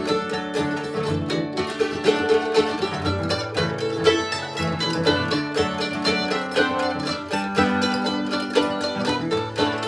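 Bluegrass instrumental break between sung verses: a mandolin takes a quick, busy lead over acoustic guitar rhythm and a second mandolin.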